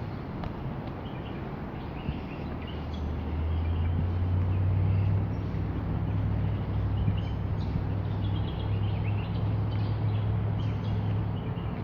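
Small birds chirping in short calls over a steady hiss, while a low vehicle engine drone comes in about two seconds in, grows louder and keeps going.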